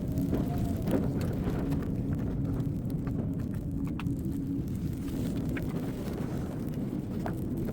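Blizzard wind blowing steadily in a low rumble, with a faint low howl held through it and a few sharp clicks here and there.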